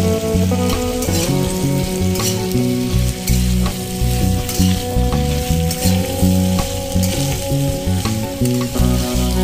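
Vegetables sizzling in hot oil in a metal kadai while a spatula stirs and turns them, with a few sharp scrapes against the pan. Music plays underneath.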